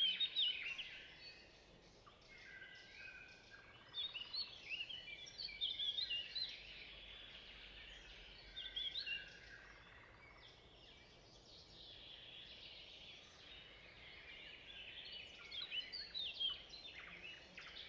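Small birds chirping and singing in a dense, continuous chorus of quick, high chirps, fainter around the middle.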